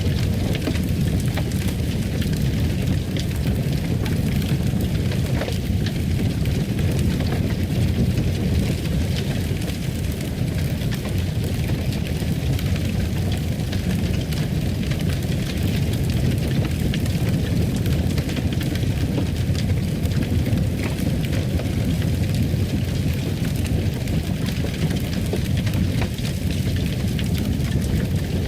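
Wood fire crackling in a fireplace: a steady low rush of flames with scattered sharp pops and crackles.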